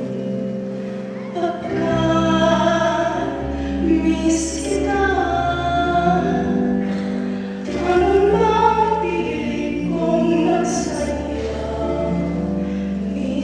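Music: a choir singing a slow Christmas song over a sustained instrumental accompaniment with held bass notes.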